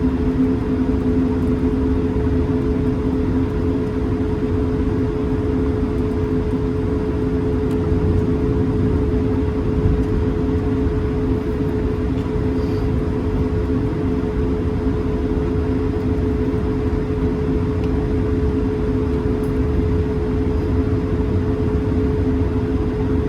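Airbus A220-300 cabin noise: its Pratt & Whitney PW1500G geared turbofan engines running steadily with two steady hum tones over a low rumble, heard from inside the cabin.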